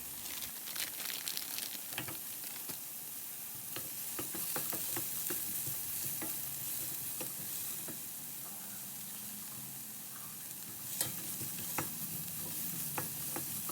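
Aromatics and red curry paste sizzling steadily in hot oil in a pan, with frequent short scrapes and clicks of a utensil stirring them.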